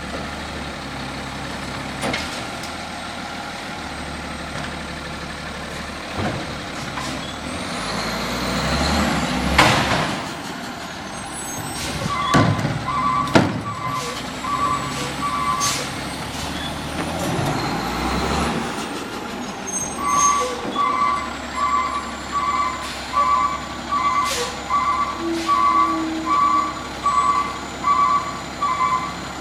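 Garbage truck's engine running steadily, with a loud hiss about a third of the way in and two sharp knocks soon after. Its reversing alarm beeps about once a second, briefly and then without pause through the last third.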